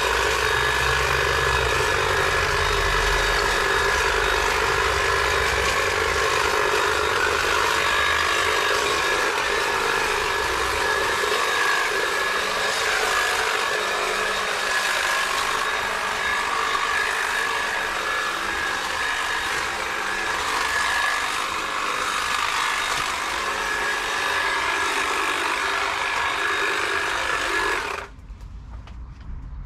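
Stihl battery hedge trimmer running steadily with a high whine as it cuts through shrub growth, then cutting off suddenly near the end.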